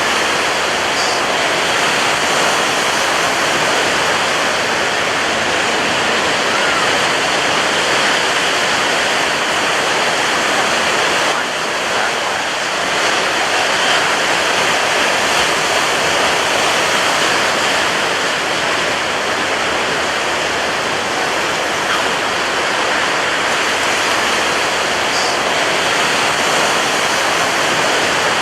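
Ocean surf breaking on a beach, heard as a steady, continuous wash of rushing water noise with no distinct single crashes standing out.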